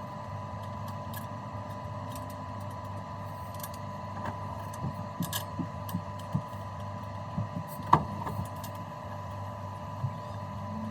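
Scattered light knocks and clicks of parts and tools being handled, with one sharper click about eight seconds in, over a steady low hum.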